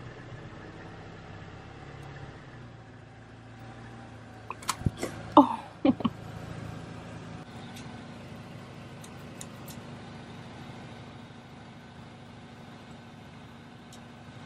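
A car engine idling steadily. About five seconds in, a quick cluster of sharp clicks and knocks and a loud, short squeal that bends in pitch, with a few faint ticks a little later.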